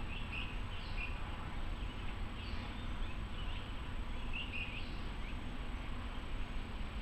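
Outdoor ambience: birds chirping in short, scattered calls over a steady low rumble.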